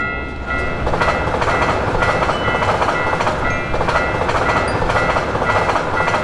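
Japanese railway level-crossing warning bell ringing about twice a second, with an electric train passing through the crossing; the train's dense rushing noise swells up about a second in and stays loud over the bell.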